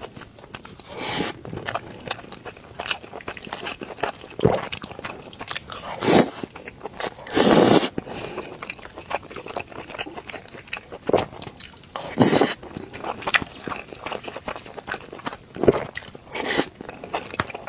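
A person chewing and biting a mouthful of tomato and egg rice: many small wet mouth clicks, with a few louder short bursts of crunching and mouth noise.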